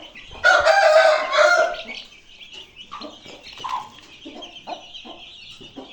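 Desi chickens: a loud hen squawk about half a second in, lasting about a second, then a few short, softer clucks, over a steady high cheeping of chicks.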